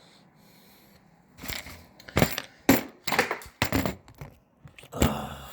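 Trousers being taken off, with a series of sharp clinks and rustles from the belt and the pockets' contents, heaviest about two to three seconds in. The trousers are wet.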